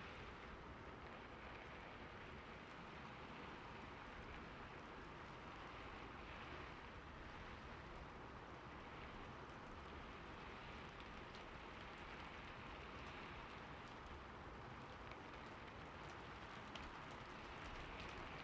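Steady rain falling on a roof: an even, soft hiss with scattered faint ticks of individual drops.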